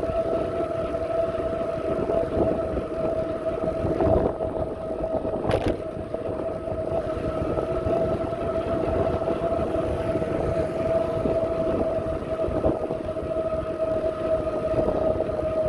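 Riding noise on a bicycle: wind rumbling on the microphone under a steady high whine with a fainter overtone, its pitch sagging slightly near the end. One short click comes about five and a half seconds in.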